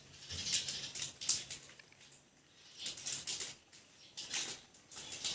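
Hands handling a smartphone and its unboxed packaging and cover: irregular bursts of rustling and rubbing.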